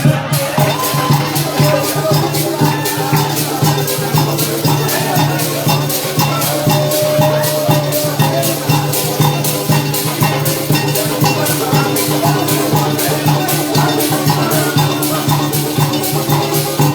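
Parang band playing an instrumental passage, with shakers keeping a quick, even rhythm over a steady bass line and melody.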